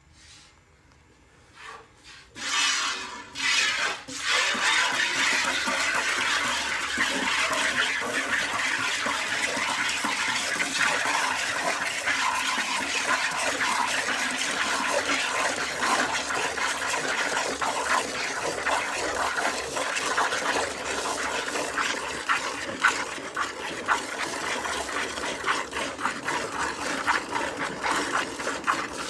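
Streams of milk squirting into a bucket in quick spurts as a cow is milked, starting about two seconds in and running on as a steady, rapid rush of liquid.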